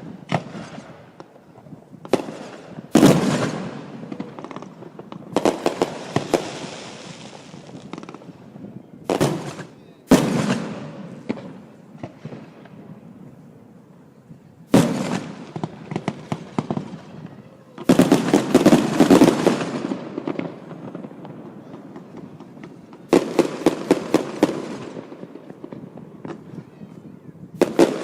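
Aerial fireworks going off in salvos: sharp bangs and rapid crackling clusters every few seconds, each trailing off in a long echoing rumble, with the densest barrage of bangs from about 18 to 20 seconds in.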